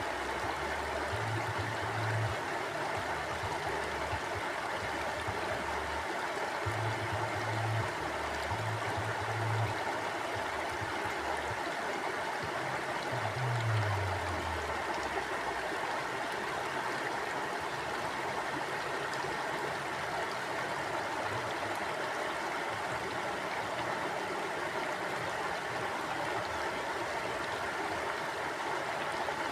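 Stream water flowing steadily, an even rushing of water over rocks. A low rumble comes and goes now and then during the first half.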